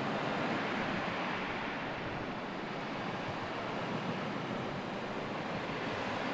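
Sea surf washing onto the shore, a continuous even rush of waves.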